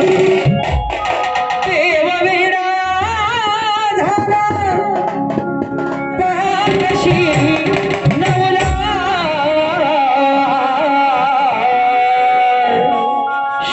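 Indian vocal music: a singer holding long, heavily ornamented, wavering notes over hand-drum beats and instrumental accompaniment.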